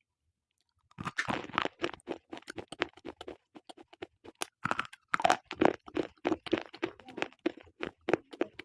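Slate pencils being bitten and chewed close up: a dense, irregular run of sharp crunches and cracks that starts about a second in.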